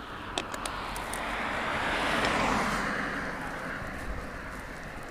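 A car driving past close by, its road noise swelling to a peak about two seconds in and then fading away.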